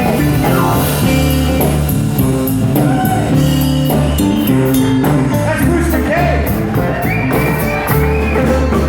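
Live blues band playing: drum kit keeping a steady cymbal beat over bass, guitar and piano, with a lead line bending in pitch above them.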